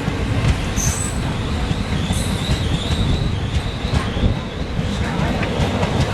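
Train running on the rails behind a WAP-7 electric locomotive: a steady rumble of wheels on track, with a thin, wavering high squeal that starts about two seconds in and lasts over a second.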